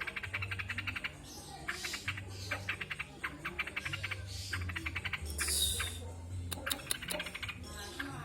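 Trucuk bulbul singing: repeated fast rattling trills, each lasting about half a second to a second with short breaks between, in a song likened to the greater green leafbird's. A short hiss comes about five and a half seconds in.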